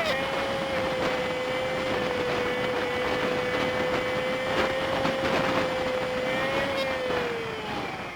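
Honda Super Cub 50's single-cylinder engine with wind and road noise from a bike-mounted dashcam, played at five times speed. It gives a steady high hum that slides down in pitch and fades near the end as the bike slows.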